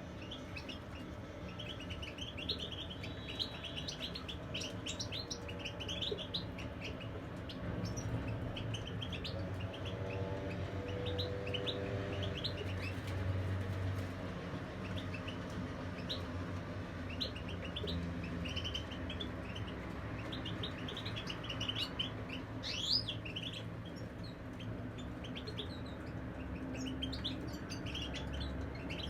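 European goldfinches chirping and twittering in a rapid run of short, high notes, with a steady low hum underneath.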